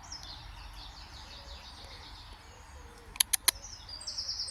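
Small birds singing in rapid, high chirping phrases, with three sharp clicks in quick succession about three seconds in.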